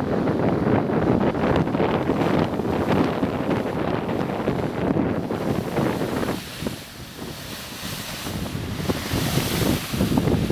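Strong wind buffeting the microphone over waves breaking on a beach. The low wind rumble eases about six seconds in, and the hiss of surf washing in then swells.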